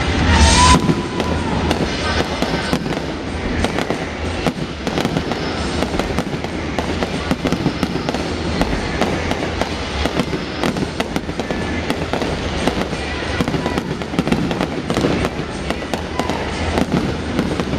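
Fireworks display: aerial shells bursting in a rapid, continuous series of bangs, with a loud burst about half a second in.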